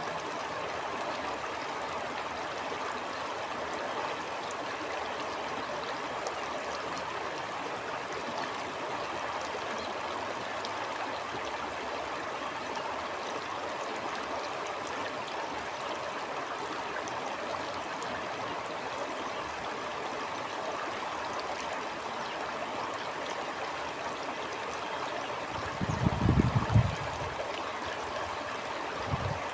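Stream water flowing and gurgling, a steady rush. Near the end there is a brief low rumble, the loudest moment, and a shorter one just after it.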